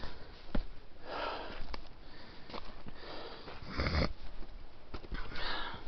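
A tired hiker's heavy breathing and sniffing: three breaths, about a second in, near four seconds in and near the end, with a few small clicks between them.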